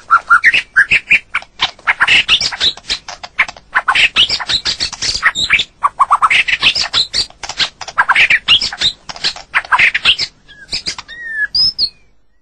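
White-rumped shama singing: a fast run of varied whistled notes mixed with harsh chattering calls, thinning to a few slurred whistles near the end.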